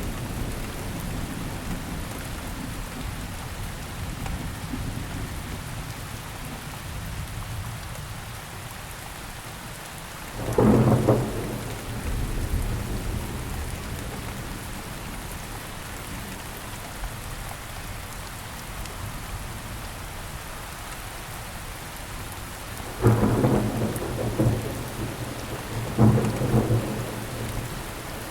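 Steady rainfall with thunder: a low rumble at first, then a sharp clap of thunder about ten seconds in and two more close together near the end, each rolling off over a second or two.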